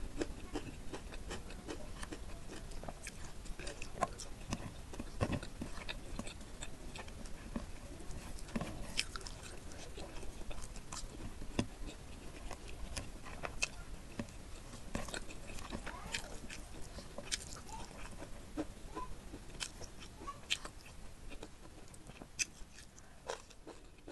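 Close-miked wet chewing of chicken curry and rice, with many irregular sticky clicks and smacks of the mouth.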